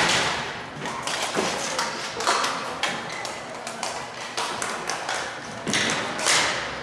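Dek hockey play: sticks clacking on the ball and the ball knocking against the boards, with stick blades scraping across the plastic court and a few sharp knocks.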